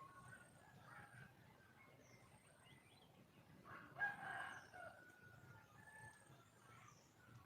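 A junglefowl gives one short call about four seconds in, over faint high bird chirps.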